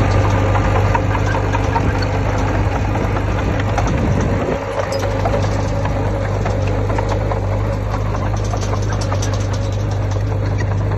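Heavy diesel engine of a bulldozer running steadily, with scattered light clicks and rattles over it.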